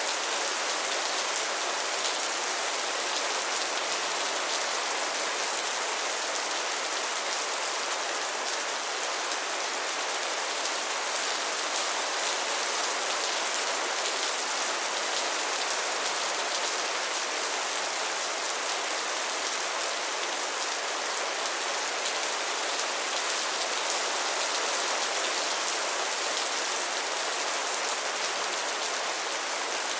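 Steady rain falling and pattering on a surface, an even hiss with fine drop taps.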